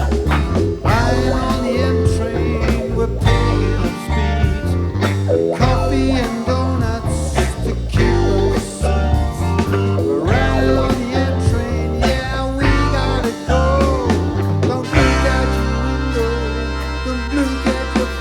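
Live rock band playing with electric guitars, bass and drums, lead guitar lines bending in pitch; from about fifteen seconds in, the band holds a sustained chord.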